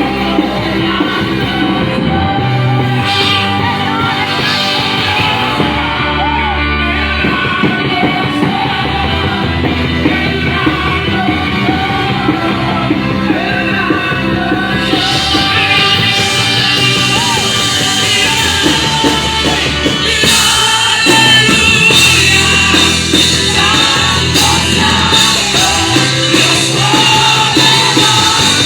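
Live church worship band playing loud rock-style music, with a drum kit and a singer. The cymbals grow brighter about halfway through, and the music gets louder a little later.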